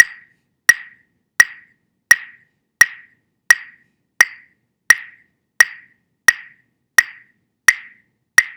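A steady wood-block click beat, like a metronome keeping time for the chant: a sharp, dry knock about every 0.7 seconds.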